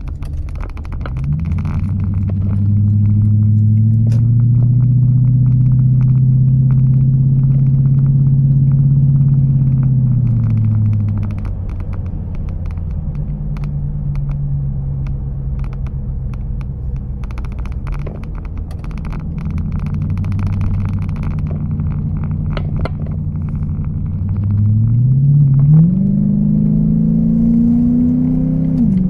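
1996 Toyota Celsior's V8 heard through a custom exhaust from inside the cabin: a low, pitched drone that climbs as the engine speeds up, holds steady, then falls away. It climbs again near the end and drops suddenly, like a gear change.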